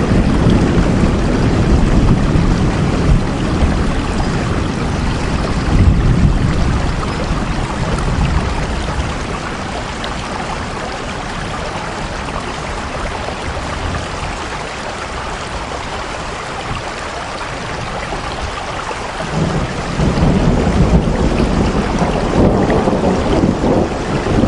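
Steady rain with a deep low rumble under it. The rumble eases off in the middle and comes back strongly about twenty seconds in.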